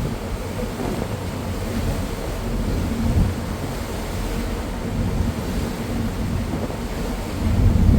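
Wind buffeting the microphone on a moving boat, a gusting low rumble mixed with the rush of water and the boat underway.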